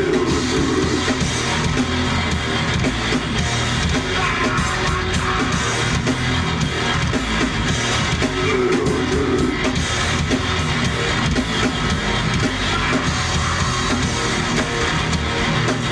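A live rock band playing a song: electric guitar and drum kit, loud and dense without a break.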